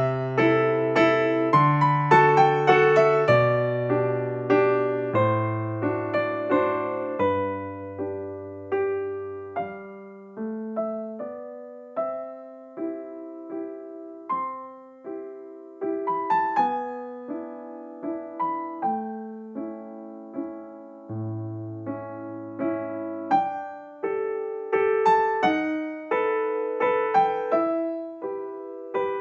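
Background music: a gentle piano melody of single notes, each struck and fading, over low held bass notes in the first third.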